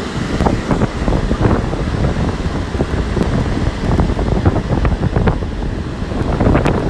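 Strong wind buffeting the microphone, over heavy storm surf breaking on the shore, in irregular gusts.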